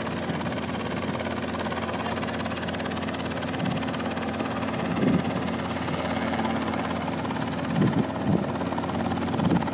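Helicopter running steadily with a continuous rotor beat and engine hum. A few short, louder sounds stand out over it, about halfway through and near the end.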